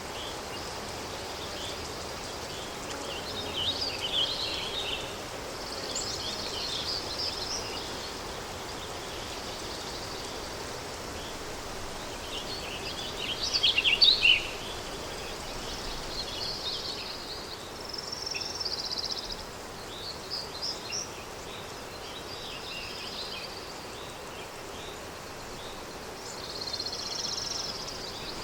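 Countryside daytime ambience: a steady breeze with small birds chirping and singing on and off, the loudest burst of song about halfway through.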